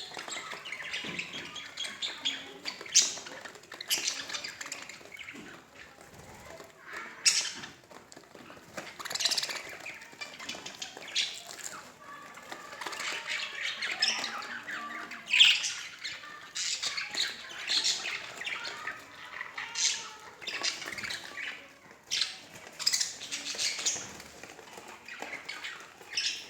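A pair of budgerigars chattering: a continuous warbling chatter broken by frequent sharp squawks and chirps.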